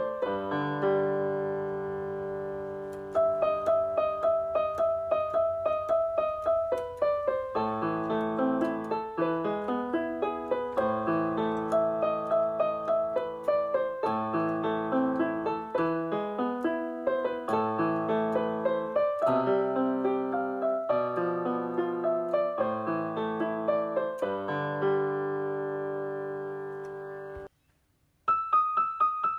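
Background piano music, a gentle melody of struck notes over sustained chords; it stops briefly about a second before the end and starts again.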